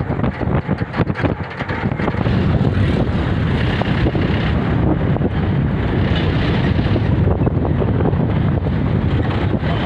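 Wind buffeting the microphone: a loud, steady rumbling noise, uneven in the first couple of seconds and then level.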